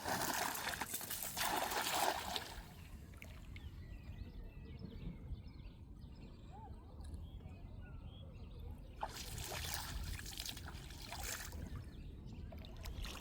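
Water sloshing and trickling, in two louder spells near the start and again about nine seconds in, with quieter water sounds between.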